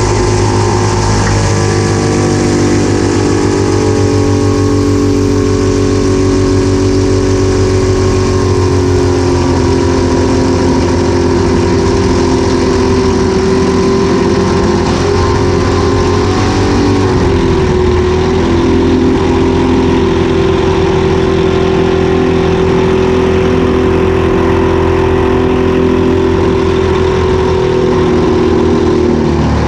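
Thunder Mustang race plane's piston engine running steadily at a constant pitch, with a brief dip in pitch about 17 seconds in.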